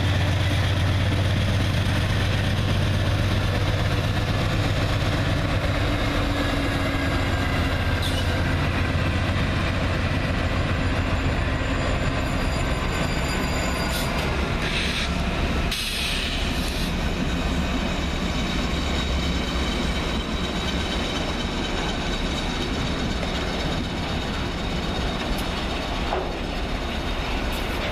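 A freight train's lead diesel-electric locomotives, CSX and then BNSF units, passing at close range. A low, steady engine drone is strongest at first and eases about halfway through as the engines go by, leaving steady wheel-and-rail noise.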